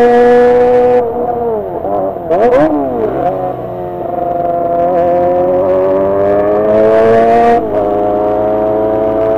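Kawasaki ZX25R's 250 cc inline-four running at high revs. About a second in the revs drop, with a few quick throttle blips. It then climbs steadily through the revs and shifts up near the end.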